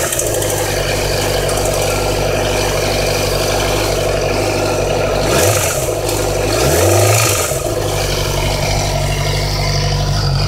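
2008 Yamaha YZF-R6 inline-four engine idling steadily, blipped twice: a short rev about halfway through, then a longer one about two seconds later. The ticking noise that the owner suspects of the cam or timing chain has gone away at this idle.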